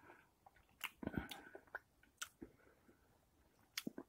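A person chewing a mouthful of cheese-filled pork bratwurst: faint, irregular wet mouth clicks and smacks, with a louder burst about a second in.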